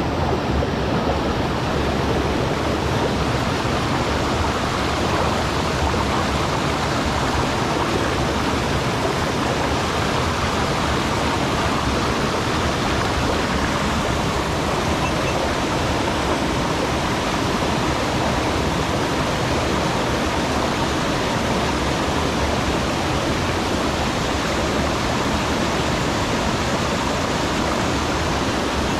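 Mountain stream rushing over rocks: a steady, loud wash of water that stays even throughout.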